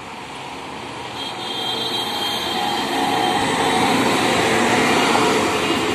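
A WAP-7 electric locomotive hauling an express train approaches and passes close by, its running noise growing louder and peaking as the locomotive goes past. A faint high steady whine joins in about a second in, and the coaches' wheels run on the rails behind it.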